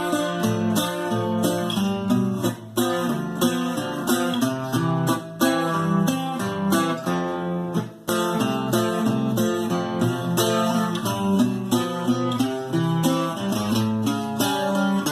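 Bajo quinto being played solo: quick picked runs of notes over bass notes, mixed with strummed chords.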